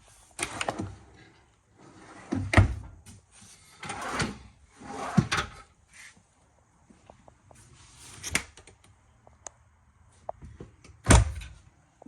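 Cabinet doors and drawers being opened and shut: about six separate knocks and thuds at irregular intervals, some with a sliding swish around them.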